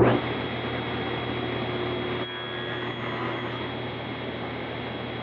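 Table saw switched on: the motor comes up to speed with a sudden loud start, then runs steadily with an even hum and a thin high whine from the spinning blade.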